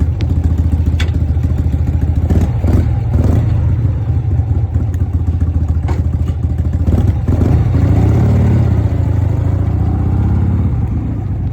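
1988 Harley-Davidson Softail's Evolution V-twin engine running steadily, its pitch swinging up and down briefly a little past the middle.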